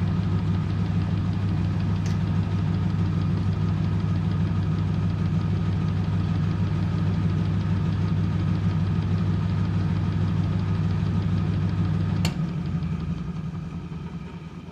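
1997 Merloni-built Eurotech EW 450 washing machine in its final spin at 400 rpm: the motor and drum run with a steady low hum. About twelve seconds in there is a click, the motor cuts out and the drum coasts down, ending the spin.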